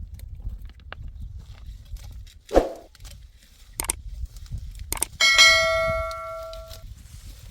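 A few short knocks, then one loud metallic ring like a struck bell about five seconds in, fading away over about a second and a half.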